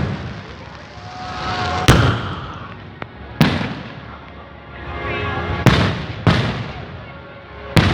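Fireworks going off in a string of about five loud, sharp bangs a second or two apart, some of them led in by a building hiss.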